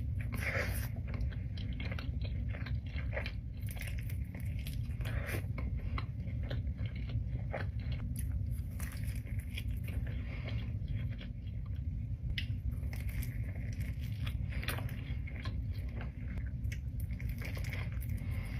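Close-miked eating sounds: a person biting and chewing pizza, with irregular crunches and wet mouth clicks throughout, over a steady low hum.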